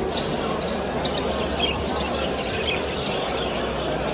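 Many small caged birds chirping in short, high calls over a steady background of market noise.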